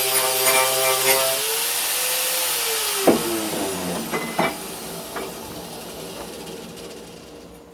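Powered wire-brush wheel running and scrubbing the steel of a meat cleaver with a steady hum and hiss. Then the motor hum winds down and fades over several seconds, with a few sharp clicks and knocks along the way.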